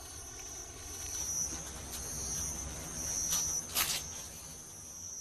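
Insects trilling steadily at a high pitch, with two brief crackles a little past the middle.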